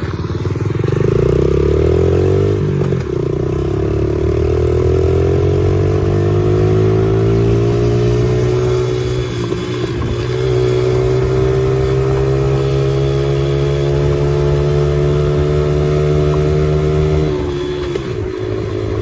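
Small four-stroke dirt bike engine, a 2007 Honda CRF70, running under throttle while riding. Its pitch climbs over the first few seconds, holds steady, then drops near the end as the throttle eases off.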